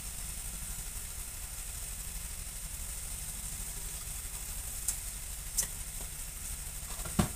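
Mixed vegetables sizzling in a wok over a gas flame, a steady frying hiss. Three sharp clicks in the last few seconds, the last the loudest.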